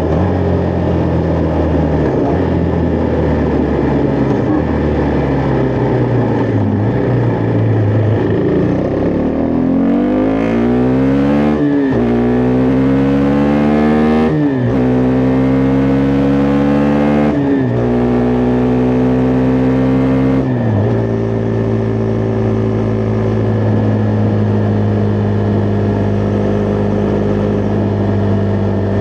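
Husqvarna Vitpilen 401's single-cylinder engine running steadily, then accelerating hard about nine seconds in. The pitch climbs and drops sharply at four upshifts, and the engine then settles into a steady cruise.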